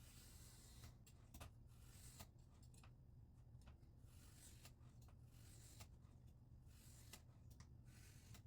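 Faint, repeated scraping strokes of a scissor blade drawn across a wet 1000-grit sharpening stone, a short stroke about every second, over a low steady hum.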